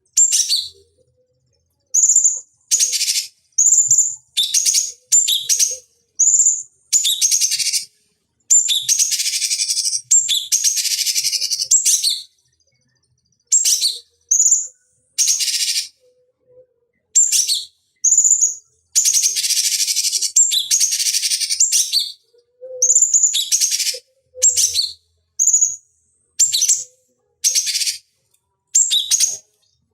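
Cucak cungkok songbird singing in a long run of loud, high chirping phrases, each lasting under a second to about two seconds, separated by short silent gaps. This is a masteran recording of the kind played to caged songbirds as a song tutor and to provoke them to sing.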